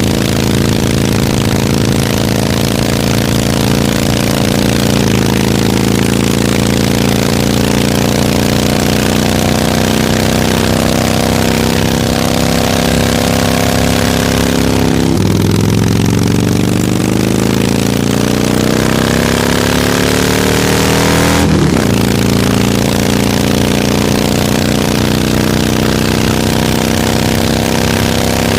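Harley-Davidson V-twin motorcycle engine running at a steady speed, then rising in pitch as it accelerates for several seconds from about halfway through, dropping back sharply and settling steady again.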